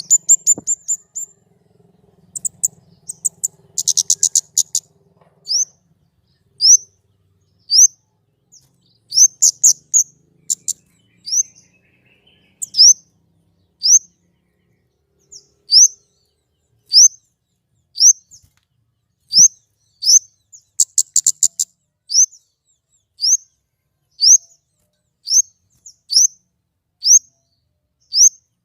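A small songbird calling a short, high, upward-sweeping chirp over and over, about once a second, broken twice by a brief rapid trill of notes.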